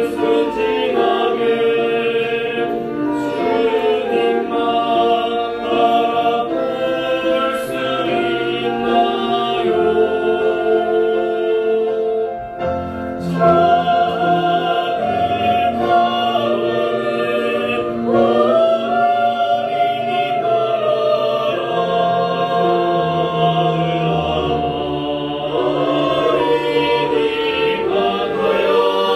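A choir singing a hymn in Korean, accompanied by a children's orchestra with bowed strings.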